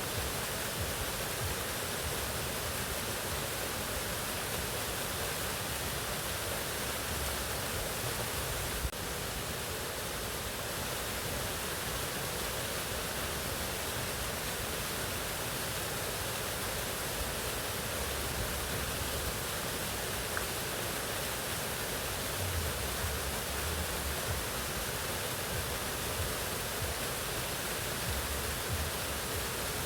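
Mountain waterfall: a steady, even rush of falling water, with a single short click about nine seconds in.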